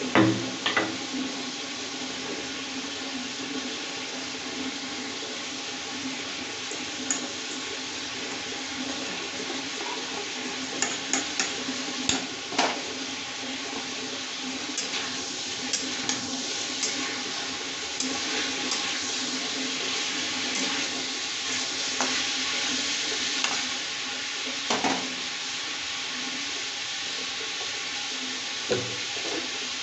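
Chicken pieces frying in oil and their own juices in a kadai: a steady sizzle with scattered pops. Near the end the pieces are stirred, with a few knocks against the pan.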